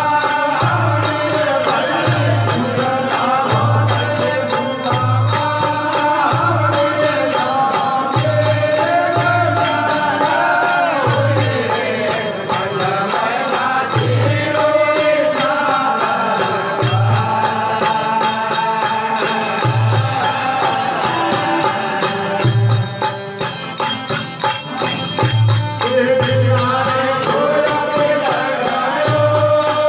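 Rajasthani desi veena bhajan: a devotional song sung in a chanting style over a steady, even low drum beat, with instruments accompanying throughout.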